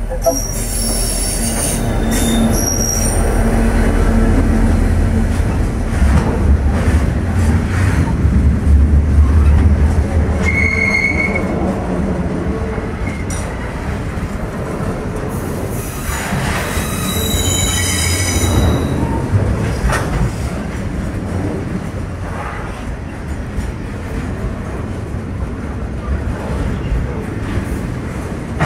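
Train passing with its wheels squealing several times, high-pitched, over a low rumble that swells about six to ten seconds in.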